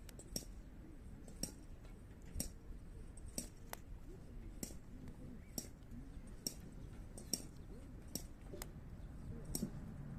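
Hardwood firewood burning in a campfire, crackling with sharp pops about once a second over a low, steady rumble.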